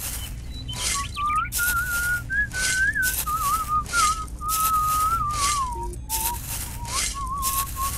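A whistled tune, one smooth melody line gliding up and down, over a run of short dry swishing scrapes as a miniature toy shovel scoops loose rice grains.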